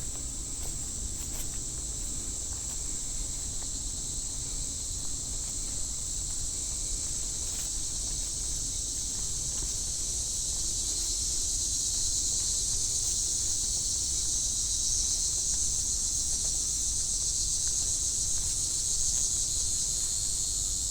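Evening chorus of singing insects: a steady, high-pitched trill that swells louder about halfway through.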